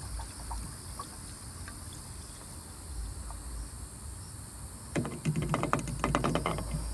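Seafoam fuel treatment being poured from its can into a car's fuel tank filler: after a few scattered small clicks over a low rumble, about five seconds in comes a quick run of gurgling, splashing liquid lasting a couple of seconds.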